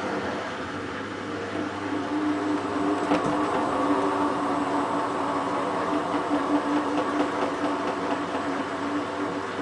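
Hotpoint WT960 washing machine running during its wash cycle: a steady motor hum that grows a little louder about two seconds in, with a faint click near the middle.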